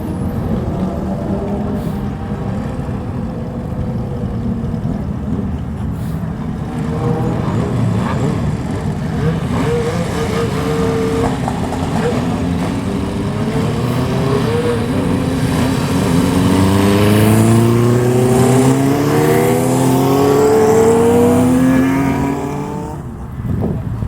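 Motorcycle exhaust from bikes riding out one after another. Toward the end one bike revs up with a rising pitch, the loudest part, and the sound drops away about a second before the end.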